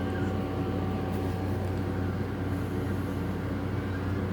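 A steady low mechanical hum with a few faint steady tones above it, unchanging throughout, and a couple of faint ticks.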